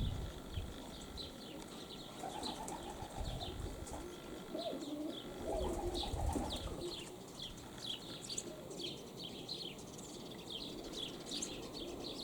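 Birds chirping in quick, repeated short notes, with pigeons cooing from about two seconds in. Gusts of wind buffet the microphone, briefly at the start and again around five to six seconds.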